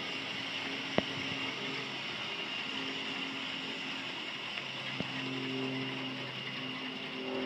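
A car engine running steadily, with two sharp clicks, one about a second in and one about five seconds in.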